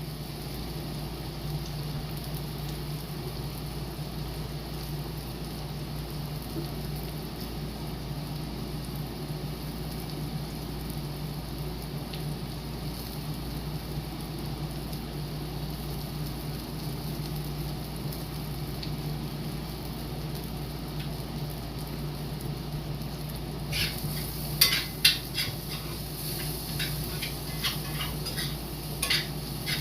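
Green beans sizzling steadily as they sauté in a pan, under a steady low hum. In the last several seconds a utensil stirs them, with a run of sharp clicks and knocks against the pan.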